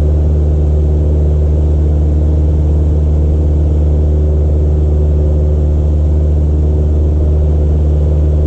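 Cessna 172's piston engine and propeller running with a loud, steady drone of unchanging pitch, heard from inside the cockpit, as the plane readies for or begins its takeoff.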